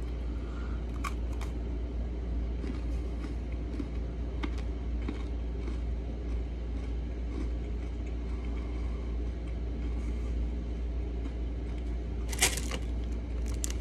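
Chewing of a crunchy sandwich cookie (a Coca-Cola flavored Oreo), with a few faint crunches and one louder sharp crunch or click near the end, over a steady low hum.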